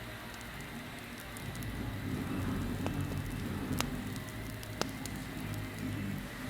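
Campfire burning with a steady hiss and low rumble, scattered with small crackles and two sharper pops about four and five seconds in.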